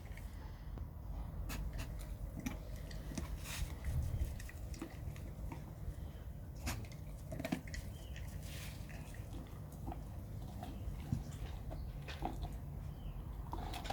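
A large dog chewing a sheep's head, with irregular sharp cracks and clicks of teeth on bone.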